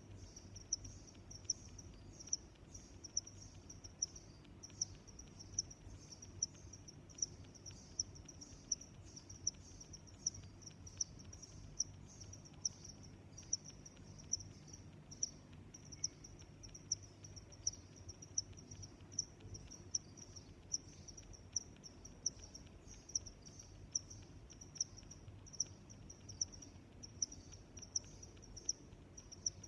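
A cricket chirping steadily, short high-pitched chirps repeating a little more than once a second without a break.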